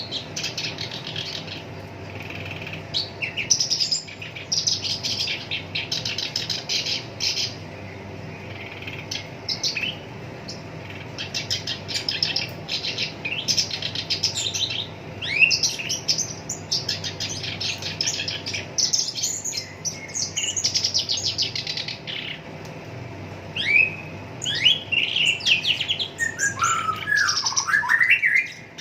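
Black-browed reed warbler singing a harsh, chattering song of rapid rattling trills in long runs, broken by short pauses. Near the end come a few scratchy falling notes, lower in pitch.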